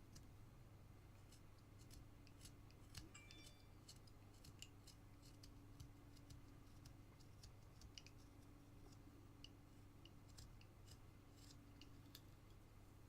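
Faint carving knife shaving small slivers from basswood: scattered, irregular light clicks and scrapes over a steady low hum.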